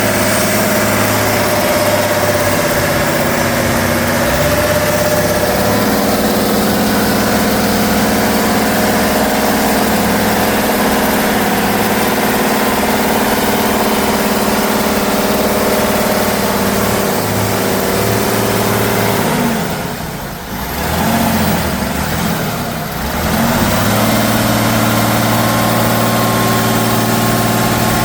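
Heavy off-road truck's diesel engine running steadily under load; about two-thirds of the way through, the revs dip twice and come back up.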